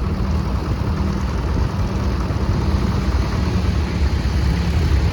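Tractor engines running steadily at low speed, a continuous low hum with no sharp changes.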